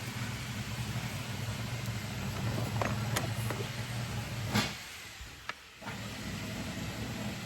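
A steady low motor drone that cuts out for about a second partway through, then starts again, with a few sharp clicks just before the break.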